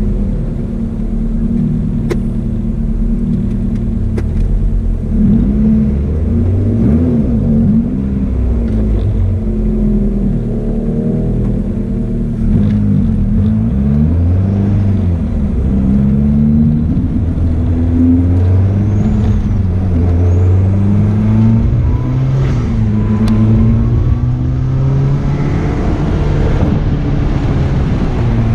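Turbocharged 1999 Toyota MR-S's mid-mounted 1.8-litre four-cylinder engine heard from inside the cabin, its pitch rising and falling again and again as it revs up and drops back, then holding steadier under load in the second half.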